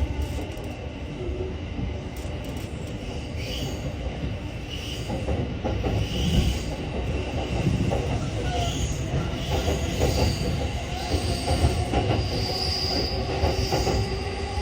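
N700A Shinkansen train running at low speed just after leaving the station, with a steady low rumble from wheels on rail. Short high-pitched wheel squeals come and go from about three seconds in.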